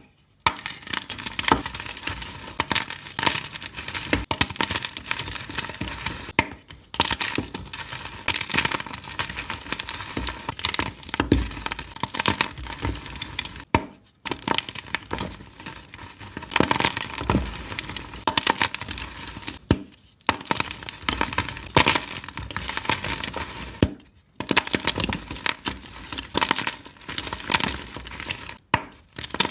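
Blocks of dyed, reformed gym chalk being crushed and crumbled, a dense crunching and crackling. It stops for a moment about five times where one clip cuts to the next.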